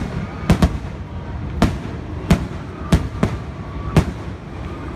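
Aerial fireworks bursting overhead: a string of sharp bangs, about seven in five seconds, irregularly spaced.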